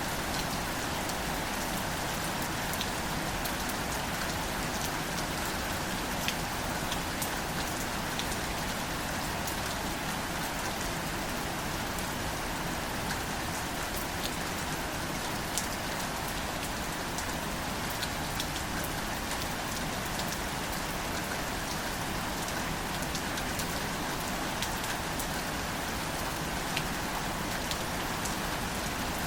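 Steady gentle rain falling on wildflowers and foliage, an even patter with many small scattered drop ticks.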